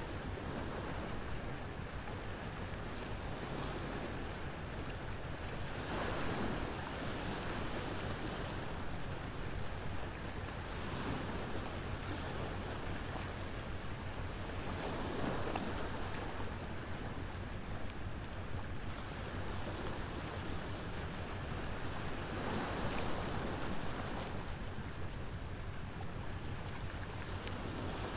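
Ocean waves washing ashore in a steady surf that swells every few seconds, with a wood bonfire crackling now and then.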